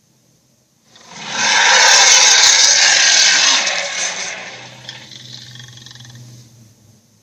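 Monster roar sound effect for the kaiju Slattern: a loud, rough roar that swells in about a second in, holds for two or three seconds, then fades out slowly over a low drone.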